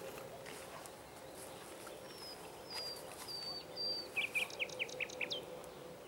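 A songbird singing: a few high whistled notes, then a quick run of short falling notes near the end. Faint crackling ticks from the burning log are underneath.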